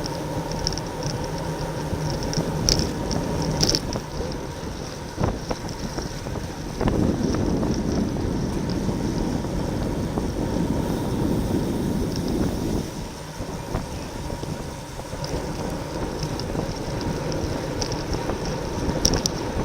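Wind rushing over the microphone of a camera on a racing bicycle at speed, with rolling road noise that grows louder for several seconds in the middle and a few short clicks.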